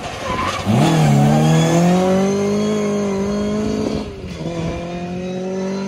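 Rally car accelerating hard past at full throttle: the engine note comes in suddenly, rises in pitch and holds high. About four seconds in it drops in loudness and a steadier engine note carries on.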